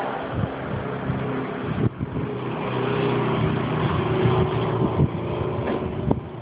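A motor vehicle's engine running with a steady hum, over a noisy background.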